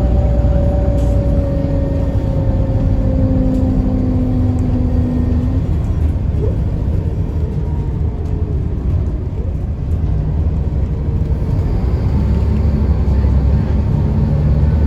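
Scania L94UB bus with its DSC9 diesel engine and ZF automatic transmission running under way. Its whine falls in pitch over the first few seconds, the sound eases off in the middle, and it picks up again with a rising note near the end.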